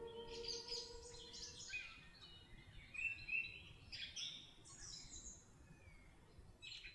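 Songbirds singing in short, high chirping phrases, faint. The last of a music track fades out during the first second or two.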